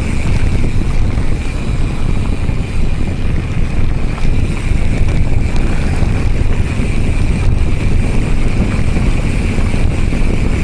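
Wind rushing over the microphone with the rumble of a Giant Trance X full-suspension mountain bike rolling along a dirt trail, plus a steady high hum.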